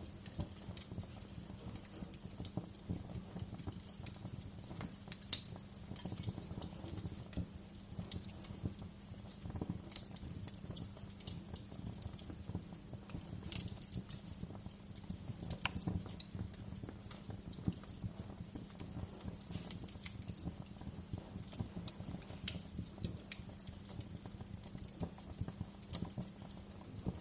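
Wood fire crackling: a steady low rumble of burning with dense, irregular small crackles and occasional sharper pops.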